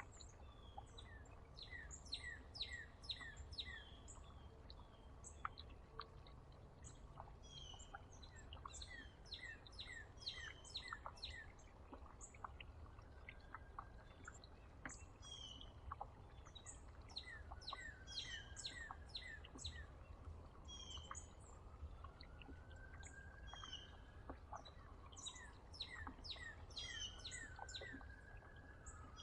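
Small songbirds chirping: many short, high chirps in quick runs throughout, faint, over a steady low hum. In the second half a few slow rising-then-falling tones join in.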